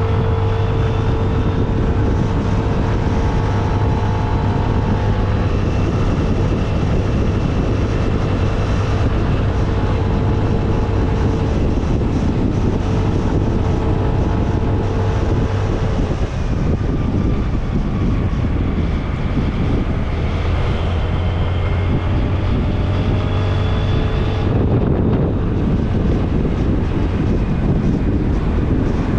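Motorcycle engine running at a steady cruising speed, with heavy wind noise on the action-camera microphone. The steady engine note breaks briefly about halfway through.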